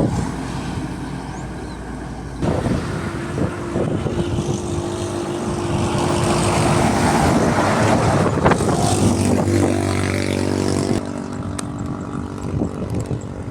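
Heavy diesel trucks passing close by on a road: engine hum and tyre and wind noise swell about two seconds in, run loudest for several seconds, and drop off sharply near the end.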